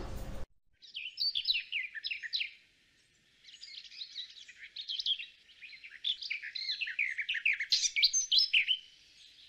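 Small songbirds chirping and twittering in quick, short high notes, with a pause about three seconds in.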